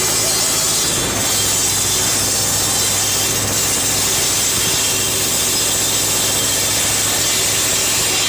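A tractor-powered saw cutting wood: a steady hiss from the blade in the cut, starting suddenly, over the tractor engine's steady hum.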